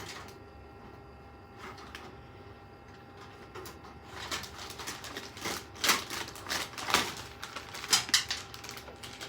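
Clicking and rattling of PC case fans and parts being handled, a few scattered clicks at first, then a busy run of clicks and knocks from about four seconds in, loudest near the sixth and eighth seconds.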